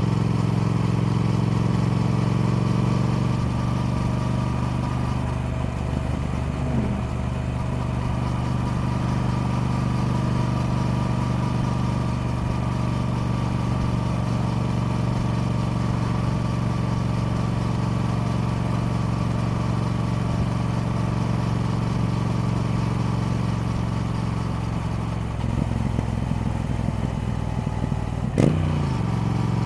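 Triumph Speed Twin's parallel-twin engine running steadily. Its note drops a little about three seconds in, and a brief sharp click comes near the end.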